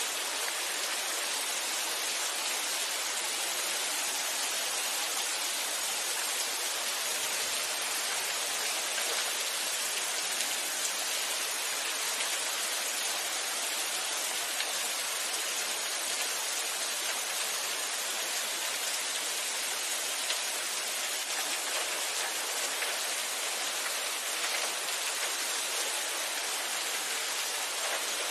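Steady, even rain falling, with a constant hiss and scattered drops ticking on a surface.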